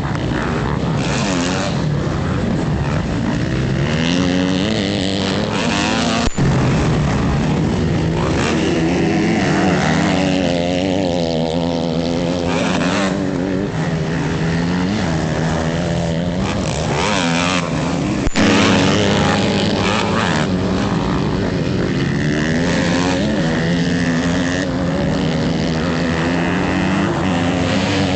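Motocross bikes running on a practice track, engines revving up and down as riders accelerate and back off through the course. Two short sharp clicks cut through, about a fifth and two thirds of the way in.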